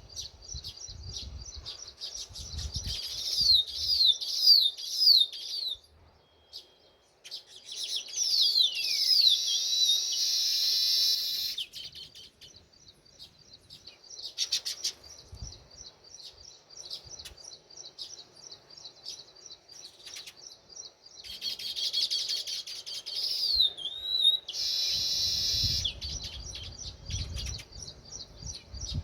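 House sparrows chirping: a fast run of repeated high chirps, with several quick falling notes, and denser chattering stretches in the middle and near the end.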